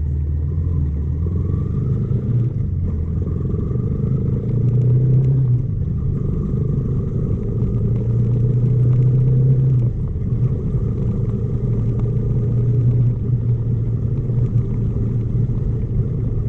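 Motorcycle engine running under way, its note rising with the throttle twice and dropping back about ten seconds in, over a steady low rumble.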